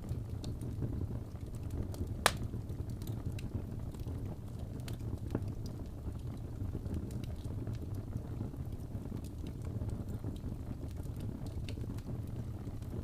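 Wood fire in a fireplace burning with a steady low rush and scattered crackles and pops, one sharp pop a little over two seconds in.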